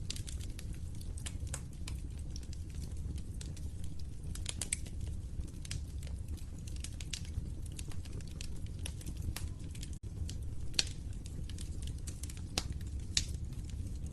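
Wood fire crackling in a fireplace: irregular sharp pops and snaps over a low steady rumble of burning, with a few louder pops in the last few seconds. The sound briefly drops out for a split second about ten seconds in.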